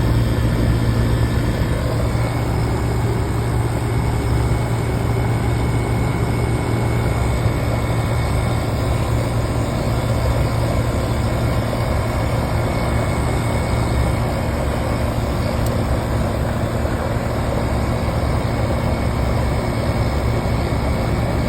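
1995 Weatherking central air conditioner's outdoor condensing unit running steadily under load: the Copeland reciprocating compressor's constant low hum under the even rush of the condenser fan.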